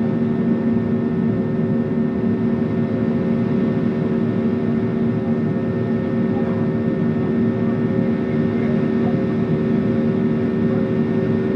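Airliner's jet engines and rushing airflow droning steadily, heard from inside the passenger cabin, with a constant hum at several pitches.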